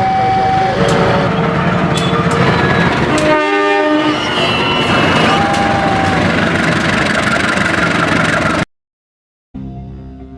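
A train passing close by, a loud, steady rumble and rattle with its horn sounding, one clear blast about three seconds in. It cuts off suddenly near the end, and music follows.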